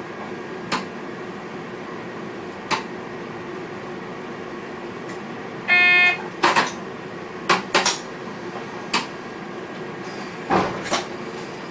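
NS VIRM double-deck train cab: steady hum of the cab equipment, with a half-second buzzing beep from the cab signalling about six seconds in, and scattered sharp clicks and knocks from the driver's controls and switches.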